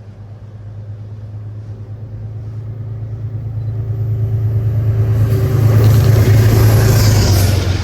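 A train approaching: a low, steady rumble grows louder throughout. A rising hiss of wheels and rushing air joins about five seconds in, and it peaks near the end as the train draws close.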